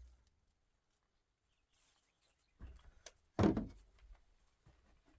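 A few light knocks and one dull thunk about three and a half seconds in, with quiet between them: handling of wood or tools during building work.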